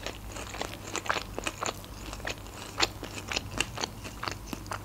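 Close-miked chewing of a mouthful of sushi rolls, with irregular soft mouth clicks throughout.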